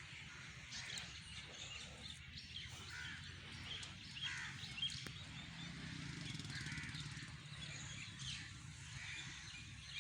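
Birds chirping and calling in short, scattered notes over a steady low background rumble.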